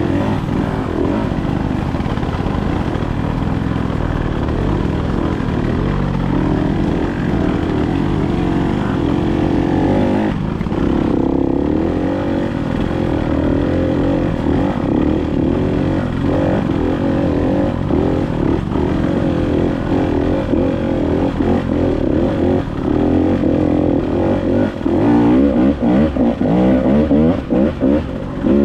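Dirt bike engine being ridden, its pitch rising and falling with the throttle, with several quick throttle chops near the end.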